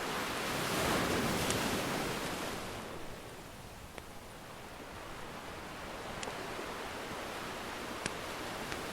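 Ocean surf: a wave washes in and swells about a second in, then draws back and slowly builds again. A few sharp pops of a crackling wood fire sound over it.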